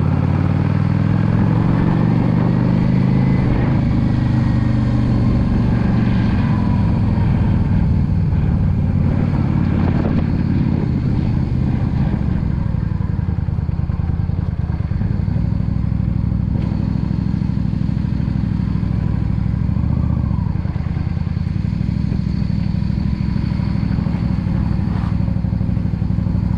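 Yamaha V Star 650 cruiser's air-cooled V-twin engine running under way, its note rising over the first few seconds and then holding steady.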